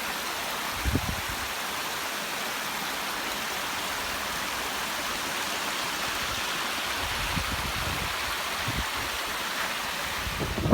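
Waterfall water falling and rushing as a steady, even hiss.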